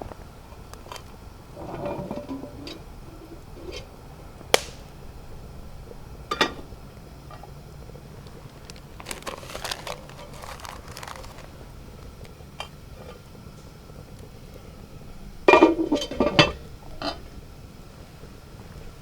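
Camp gear and dishes being handled: scattered clinks and knocks, with a sharp click about four and a half seconds in and a cluster of louder knocks near the end.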